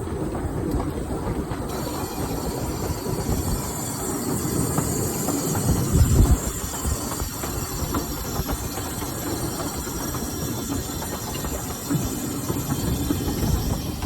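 Miniature-gauge steam locomotive Northern Rock running slowly, heard from its cab: a steady rumble of wheels with clickety-clack over the rail joints and a hiss of steam that comes in about two seconds in. A heavy low thump stands out about six seconds in.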